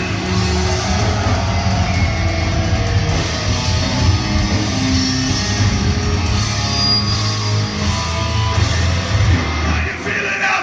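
Thrash metal band playing live, loud distorted electric guitars over heavy bass notes. The low notes cut off about ten seconds in.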